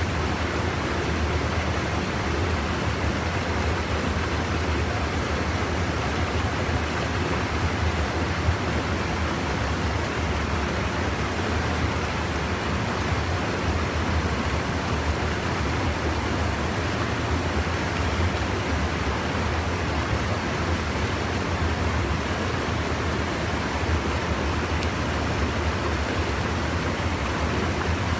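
Steady rushing of a stream's water pouring over a small erosion-control weir, unbroken throughout.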